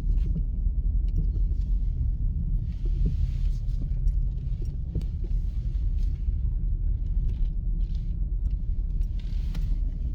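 Steady low rumble of a truck being driven, with faint hissing swells and light ticks over it.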